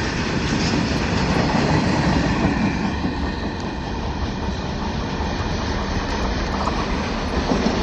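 Loaded coal wagons of a freight train rolling past on the rails: a steady rumble and clatter of wagon wheels as the rear of the train goes by.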